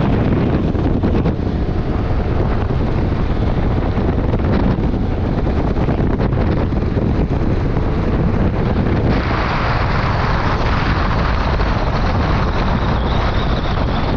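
Wind rushing over the microphone with the steady running noise of a motorcycle on the road. A brighter hiss joins about nine seconds in.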